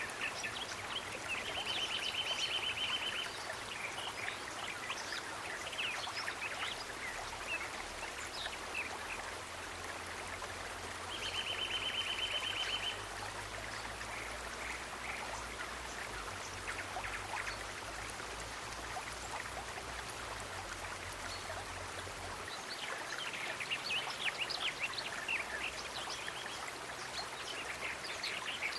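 Running water babbling and trickling steadily, with fine dripping detail. Twice a short, rapid high-pitched trill sounds for a second or so, about ten seconds apart.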